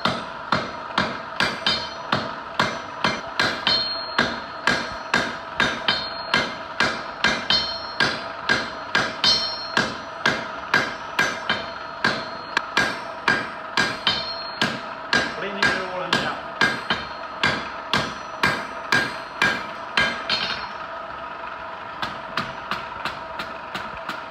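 Blacksmith's hand hammer striking hot steel on an anvil in a steady rhythm of about two blows a second, with the anvil ringing. This is the finishing blows on the final welding heat, forging a scarfed fire weld into one piece. The hammering stops about 20 seconds in, leaving a few light taps.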